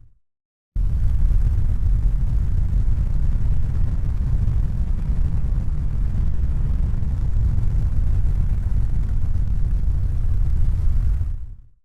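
Steady deep rumbling noise with no distinct tones, heaviest in the bass. It starts abruptly under a second in and fades out to silence near the end.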